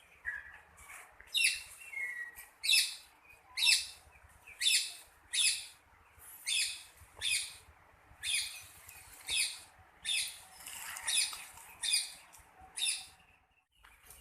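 A bird calling again and again, short sharp high calls about once a second.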